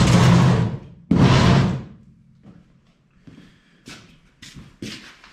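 Two loud scraping, shuffling bursts, each under a second, as heavy metal machine parts are handled and shifted, followed by a few light knocks and clicks.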